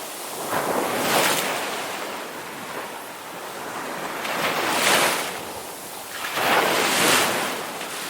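Ocean waves surging in and falling away, three swells of surf in a few seconds.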